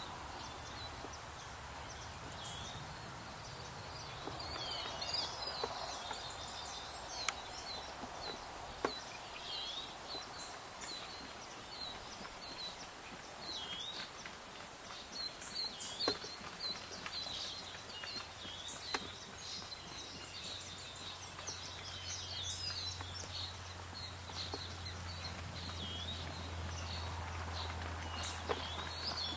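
Small birds chirping over and over: many short, high, quick chirps and calls. A low steady hum comes in about halfway through.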